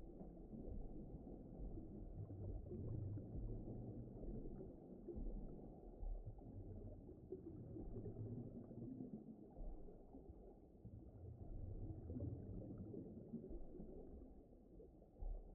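Low, muffled underwater-style ambience: a steady deep rumble that swells and ebbs gently, with nothing high-pitched in it.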